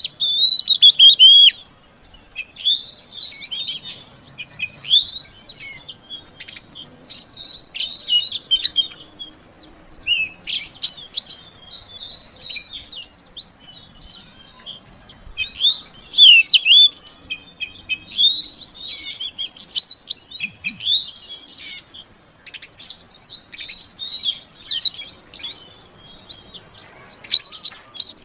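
Female oriental magpie-robin (kacer) calling: a rapid, continuous string of high chirps and slurred whistles, with a brief pause about 22 seconds in.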